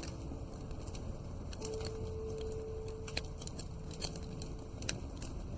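Wood fire crackling in a fireplace, with irregular sharp pops over a low rumble. A single soft held note of background music sounds through the middle.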